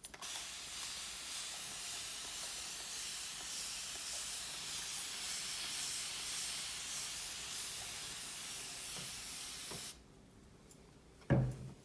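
Spray bottle misting water onto hair in one long steady hiss that cuts off about ten seconds in. A short low thump follows near the end.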